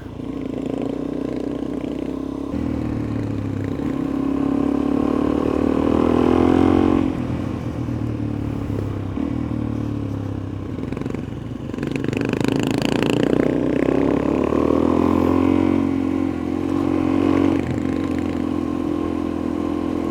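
Suzuki DR-Z400E's single-cylinder four-stroke engine under way, its pitch climbing as the throttle is held and then dropping sharply about seven seconds in and again near twelve seconds, with wind noise throughout.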